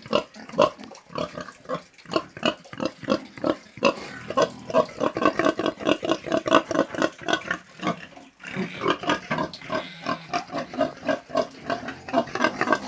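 Pigs grunting, a rapid run of short grunts several a second, with a brief pause about eight seconds in.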